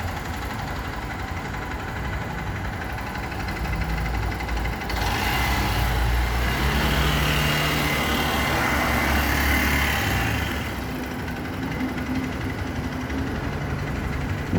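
Four-stroke motorcycle engine idling steadily, with a louder stretch of added hiss from about five to eleven seconds in.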